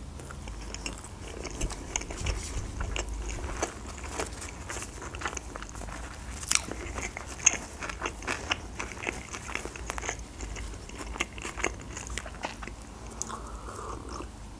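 Chewing a mouthful of sushi roll, with many small wet mouth clicks and smacks.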